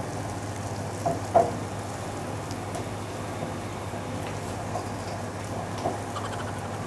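A person chewing a mouthful of seaweed hand roll filled with sea urchin roe, scallop and beef tartare: soft, wet mouth sounds with faint crackles, over a steady low room hum. A brief louder mouth sound comes about a second and a half in.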